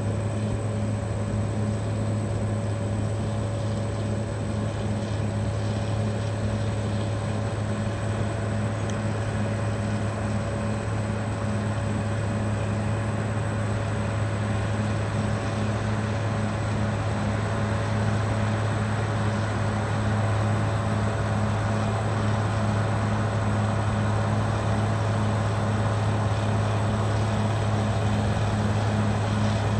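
Caterpillar D6R XL bulldozer's diesel engine running under load with a steady, deep drone and an even pulsing note.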